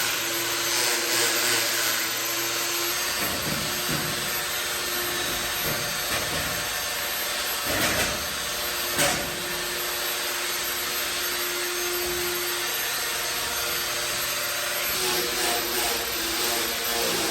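A power tool's electric motor running steadily, a whirring hiss over a constant hum, with two short knocks about eight and nine seconds in.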